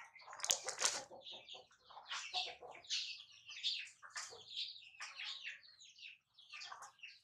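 Birds chirping in quick, continuous high calls, with a short rustle about half a second in.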